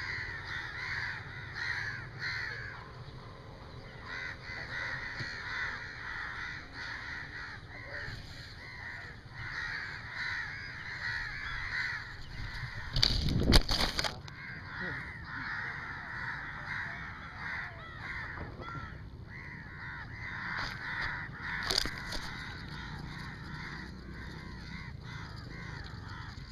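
Birds calling over and over in short repeated calls, with a loud rustling knock about halfway through and a smaller one some eight seconds later.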